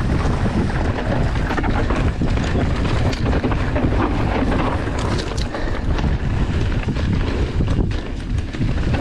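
Mountain bike riding fast down a dirt trail: wind buffeting the microphone over tyre roar on dirt and rock, with scattered clicks and knocks from the bike rattling over the rough ground.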